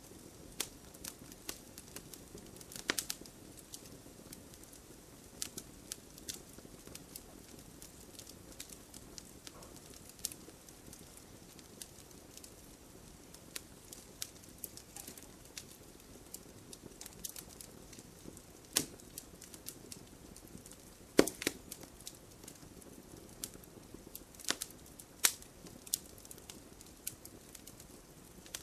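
Wood fire crackling in a fireplace: irregular sharp crackles and pops over a soft, steady low hiss from the flames, with a few louder pops, the loudest about two-thirds of the way through.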